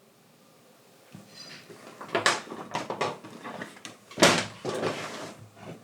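Leather being handled at a workbench: after a quiet second, a run of irregular knocks and rubbing sounds, the loudest about four seconds in.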